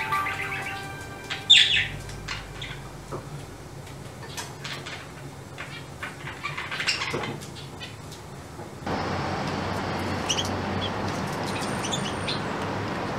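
Birds chirping in short, scattered calls, one loud chirp about a second and a half in. A steady rushing noise sets in about nine seconds in and runs on under the chirps.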